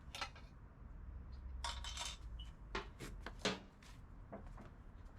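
Light metallic clinks, clicks and knocks from small hard objects being handled, with a short scrape about two seconds in and one louder knock about three and a half seconds in.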